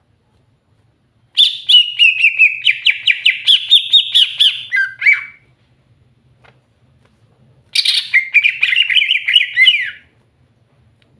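Green leafbird (cucak hijau) singing in two loud bouts of fast, repeated trilled notes. The first starts about a second in and lasts about four seconds; the second, shorter one comes near the end.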